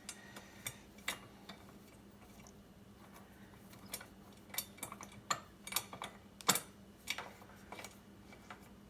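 Scattered light clicks and taps of hand grain grinder parts being handled and tightened, busier in the second half, with the sharpest knock about six and a half seconds in.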